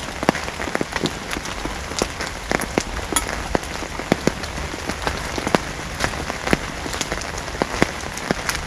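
Steady rain falling, with large drops landing close by as irregular sharp taps over a constant hiss.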